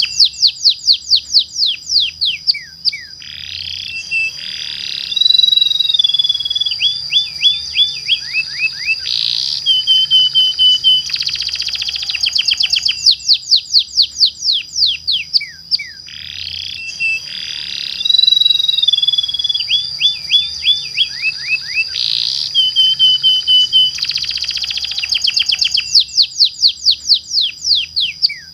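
Domestic canary singing long rolling trills: fast runs of falling chirps mixed with held warbling notes. The same song phrase of about twelve seconds repeats, as a looped lure recording does, over a steady high tone.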